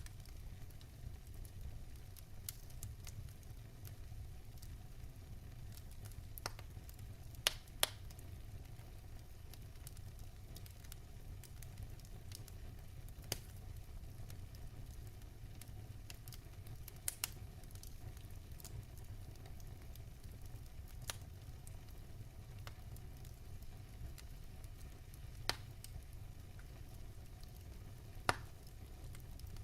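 Wood fire burning in a fireplace: a low steady rumble with scattered sharp crackles and pops, a few seconds apart, two close together about a quarter of the way in.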